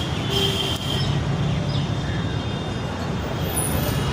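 Steady low rumble of motor vehicles running, with a thin high-pitched whine in the first second.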